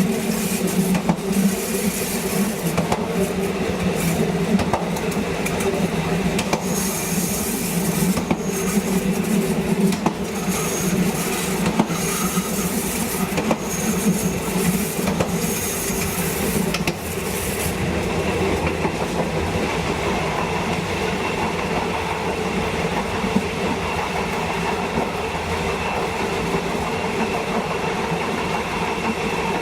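Diesel passenger train running along the track: a steady hum with wheel-on-rail clatter. In the first half there are about six short high wheel squeals, and at about two-thirds of the way through the hissing rush of noise drops away, leaving the steadier running sound.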